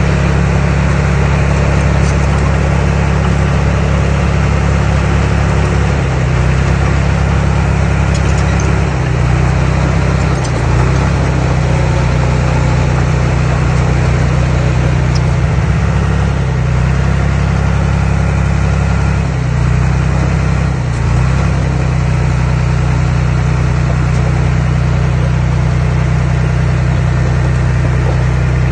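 Diesel engine of earthmoving machinery running steadily with a deep, even drone, its note dipping slightly now and then as the load changes.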